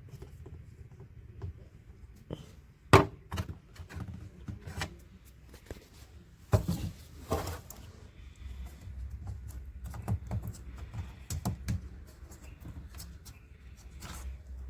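Irregular clicks and knocks from hands working with tools and parts, the loudest about three seconds in and a cluster around seven seconds, over a low steady hum.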